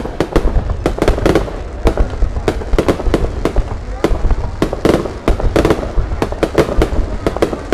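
Aerial fireworks going off in a rapid, irregular string of bangs, several a second, over a steady low rumble.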